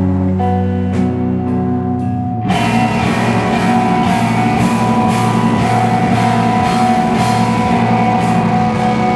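Slowcore/noise rock band playing live: held guitar and bass notes, then about two and a half seconds in the full band crashes in with drums and a dense, loud wall of guitars.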